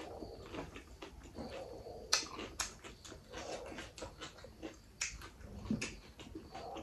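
Close-miked chewing of a mouthful of rice with mutton gravy, wet and smacking, with several sharp clicks of the lips and tongue.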